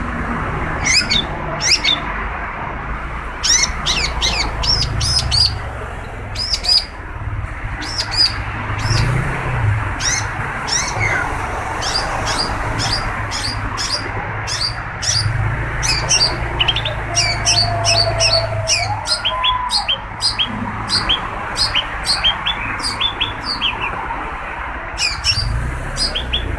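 Long-tailed shrike (cendet) calling and singing loudly in rapid runs of sharp, high chattering notes, repeated in bursts with short gaps, over a steady background hiss and low hum.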